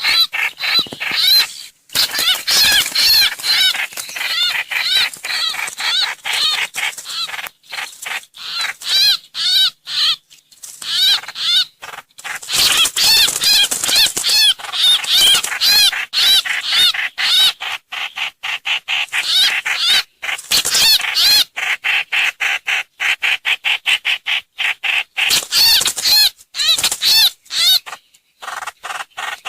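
Trao trảo (hoành hoạch) bird calls played as a lure recording: rapid runs of repeated high chirping notes in phrases, broken by short pauses.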